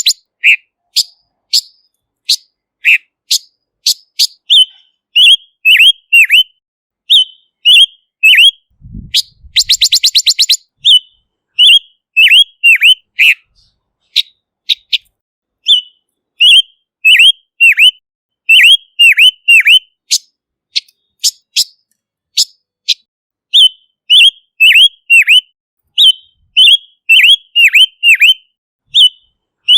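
Silver-eared mesia (Leiothrix argentauris) calling: short, sharply falling whistled notes delivered in quick phrases of two to five, with a fast dry rattle about nine seconds in.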